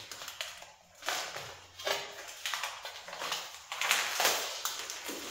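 Thin stainless steel sheet being worked by hand: irregular scraping and crinkling strokes of metal.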